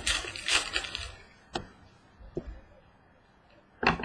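Trading card pack wrappers and cards being handled: crackly rustling for about the first second, then a few short clicks and taps, and another brief rustle near the end.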